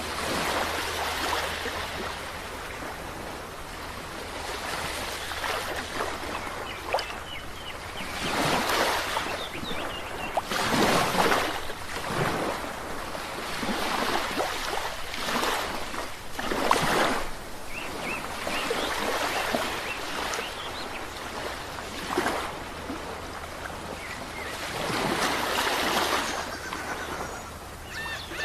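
Ocean waves breaking and washing ashore, a steady surf noise that swells into louder surges every few seconds.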